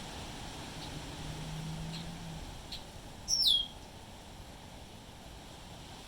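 A bird giving one short, high whistle that slides downward in pitch about three seconds in, with a few faint chips before it, over steady wind noise.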